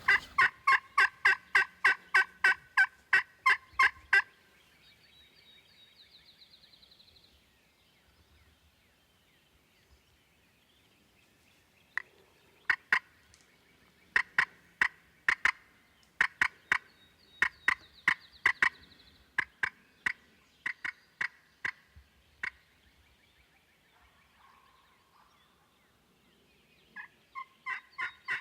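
Turkey yelping in long, evenly spaced series of loud notes, about four a second, with pauses between runs. A short high bird trill comes about five seconds in.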